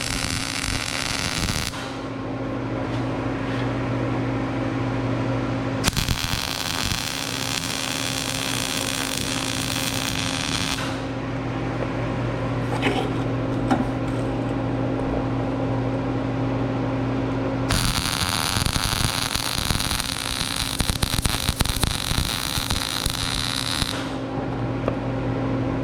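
Electric arc welding in three bursts of crackling hiss: one at the start, one a quarter of the way in lasting about five seconds, and one from about two-thirds in lasting about six seconds. Under them a welding machine hums steadily.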